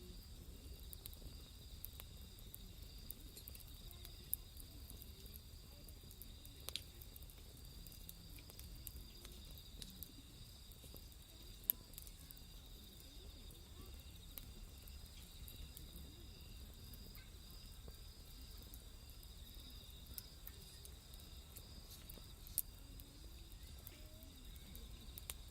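Night insects trilling steadily and faintly, with a crackling wood fire giving off scattered sharp pops, the loudest about 12 s in and about 22 s in.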